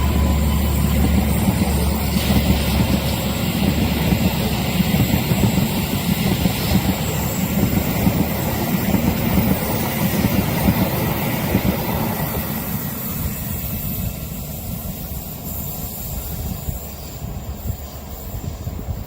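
A train passing at speed: a steady rumble of wheels on the rails, growing fainter over the last several seconds.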